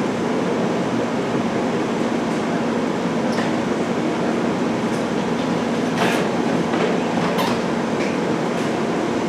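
Amtrak passenger train standing at the platform with its equipment running: a steady rushing hum with a low drone. A few sharp clicks or knocks cut in partway through.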